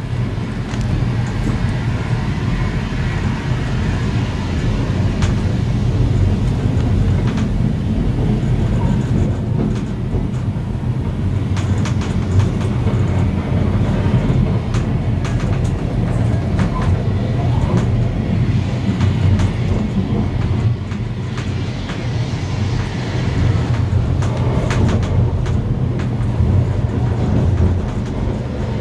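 Steam-hauled heritage passenger train running along the line: a steady rumble with scattered clicks of wheels over the rails.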